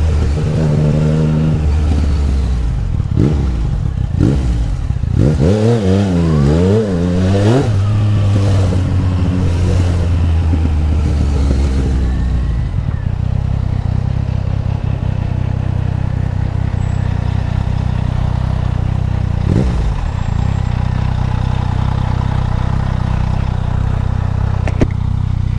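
Yamaha MT-09's three-cylinder engine revving up and down with repeated throttle blips, then settling into a steady low-rev run for the second half, with one brief rise.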